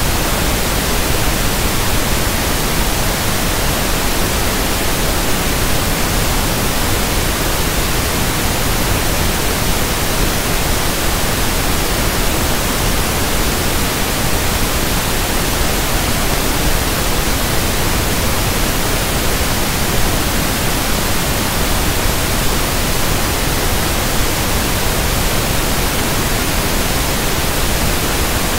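Synthetic pink (1/f) noise: a steady, even hiss spread across all pitches, holding one level throughout.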